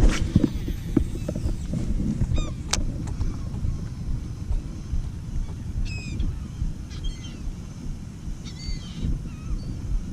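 Seabirds working over a school of trout call in short, harsh, falling notes several times, over a steady low rumble. A sharp knock comes right at the start.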